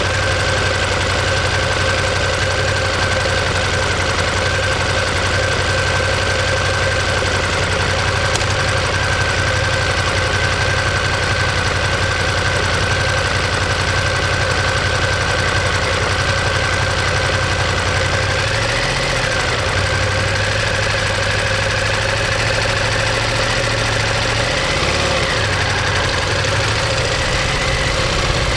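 Ducati Monster 1200S's L-twin engine running steadily through its exhaust, its pitch shifting slightly twice in the last third.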